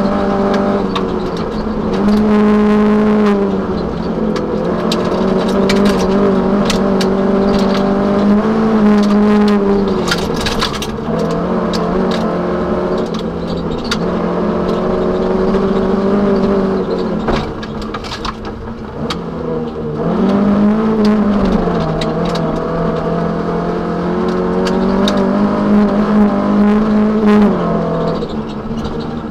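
Toyota Celica 1600 rally car's four-cylinder engine running hard at high revs, heard from inside the cabin. Its pitch dips briefly and rises again several times. Sharp clicks and knocks come through over the engine.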